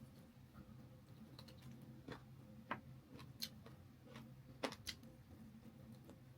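Faint eating sounds: about half a dozen short, sharp clicks and taps scattered through the middle, the sounds of chewing and of handling chicken leg pieces. A low, steady hum runs underneath.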